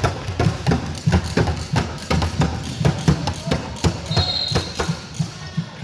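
Basketballs bouncing on the court: a quick, irregular run of thuds, several a second.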